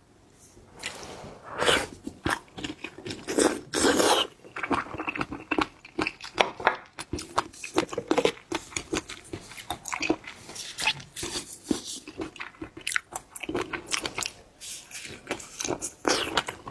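Close-miked ASMR eating of seafood: a mouth biting and chewing, with dense rapid crunches and clicks starting about a second in.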